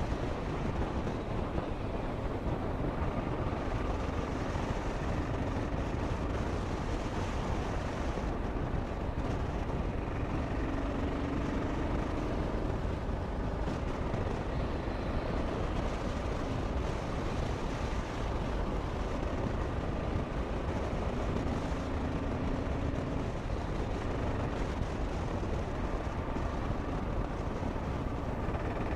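Kawasaki KLR 650 single-cylinder motorcycle engine running on a downhill road, heard from a helmet camera under heavy wind noise. A faint engine hum rises a few times and then falls back.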